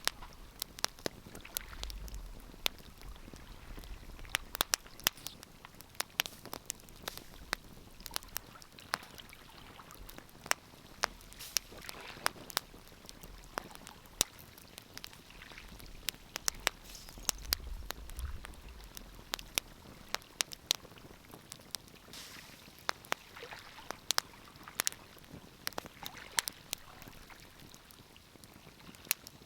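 Wood fire crackling: irregular sharp pops and snaps over a soft hiss, with a low rumble twice.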